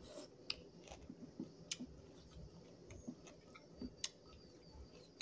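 Close-up chewing of a mouthful of rice and meat curry, with irregular sharp wet mouth clicks and lip smacks.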